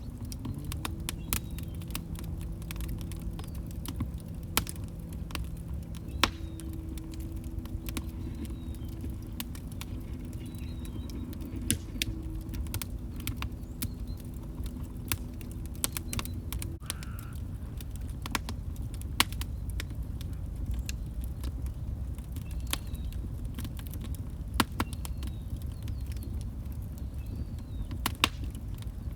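Log fire crackling: irregular sharp pops and snaps over a low steady rumble. A faint steady low hum runs through the first half and cuts off suddenly a little past the middle.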